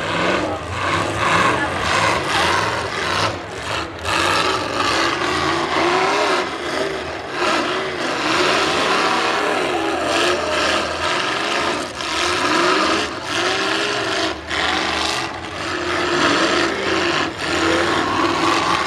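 Several V8 demolition-derby car engines revving hard and easing off, their pitches repeatedly rising and falling over one another.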